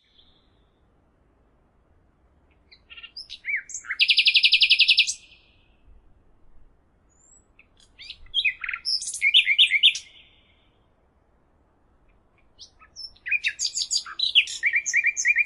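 A songbird singing three lively phrases of chirps and fast trills, each a couple of seconds long and a few seconds apart.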